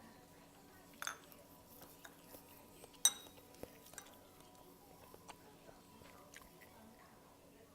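Utensil clinking against a bowl twice, about a second in and again near the middle, the second clink louder and briefly ringing, amid faint small clicks of eating and chewing.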